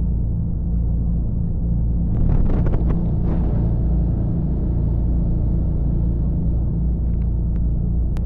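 Tour boat's engine running steadily, a loud low hum, with a brief burst of rougher noise and clicks about two seconds in.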